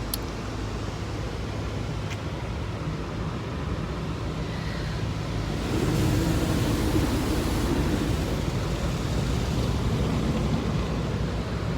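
Automatic car wash running, heard from inside the car: a steady low rumble with a hiss of spraying water, growing louder about six seconds in.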